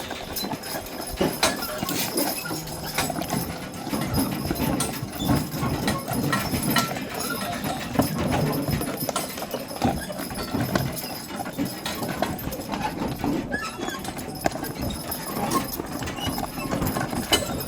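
Horse hooves clip-clopping at a walk, with irregular knocks and clatter.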